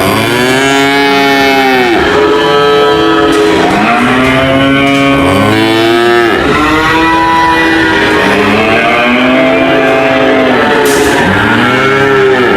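Cattle mooing over and over, long moos that rise and fall in pitch and overlap one another, as from several cows at once.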